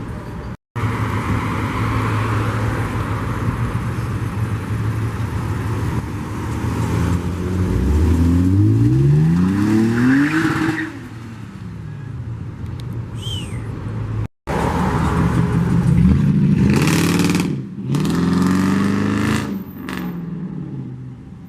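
Car engines revving and accelerating: the engine note climbs steeply for a couple of seconds before fading, then rises and falls again several times.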